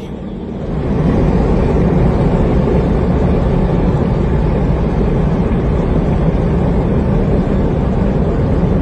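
A vehicle driving, a steady engine and road rumble that grows louder about a second in.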